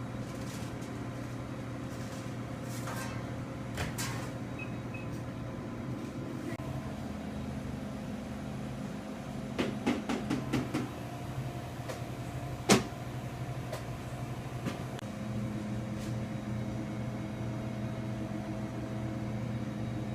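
Steady engine and road hum heard from inside a moving car's cabin, with a few short knocks near the middle and one sharp click about halfway through.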